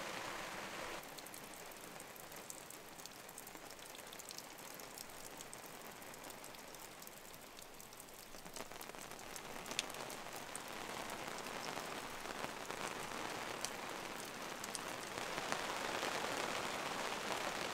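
Rain falling, with many separate drops ticking on a nearby surface over a steady hiss; it grows a little louder toward the end.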